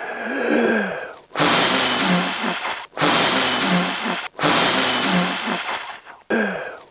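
A man blowing hard through his mouth: four long, loud, forceful breaths of about a second and a half each, with short pauses between, after a brief falling voiced sound at the start.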